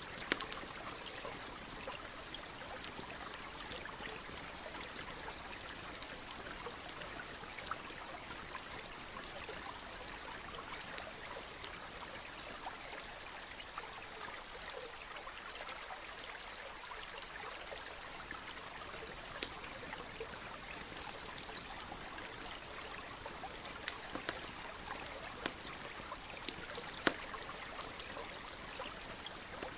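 Steady rush of a flowing stream, with a campfire crackling over it in scattered sharp pops, a few of them louder.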